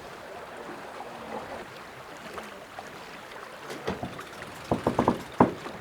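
Water rushing past the hull of an offshore racing yacht under sail, a steady wash of noise, with a quick run of about five sharp knocks or clicks on board near the end.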